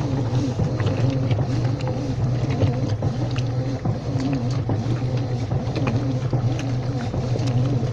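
Washing machine running: a steady motor hum with a tone above it that wavers up and down throughout, and faint scattered clicks.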